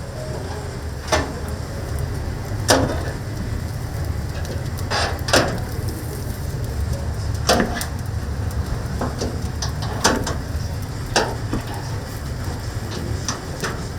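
Oak firewood fire crackling in a chicken-roasting oven: sharp, irregular pops and cracks, about ten in all, over a steady low rumble.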